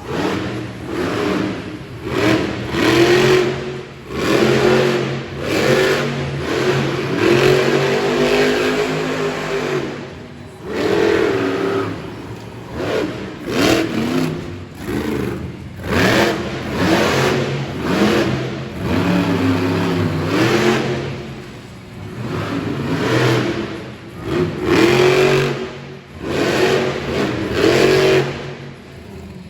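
Monster truck engine revving hard over and over, the pitch climbing and dropping every second or two.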